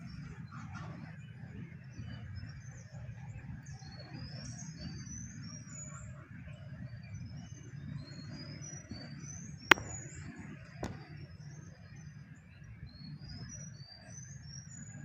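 Small birds chirping: many short, high, rising notes all the way through, over a low steady rumble. About ten seconds in there is one sharp click, the loudest sound, and a fainter click about a second later.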